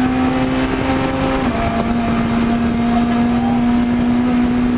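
Citroën C2 rally car's four-cylinder engine held at high, nearly steady revs under full throttle, heard from inside the cockpit over road and wind noise, with a slight brief dip in pitch about a second and a half in.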